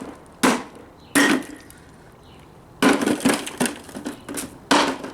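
Hammer striking a Memorex speaker cabinet: two blows in the first second or so, then a fast run of about six blows near the end.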